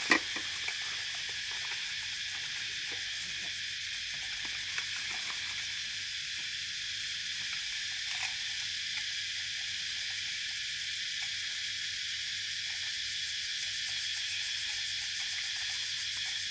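Steady high-pitched insect chorus, with a sharp click right at the start and a few faint ticks.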